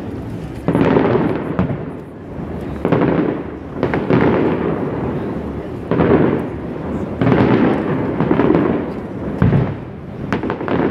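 Fireworks display shells bursting again and again, about seven booms each followed by a long fading rumble, captured on a smartphone microphone.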